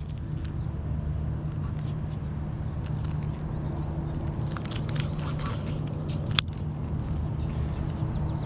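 Steady low rumble of outdoor background noise, with a few light clicks and one sharper click about six seconds in.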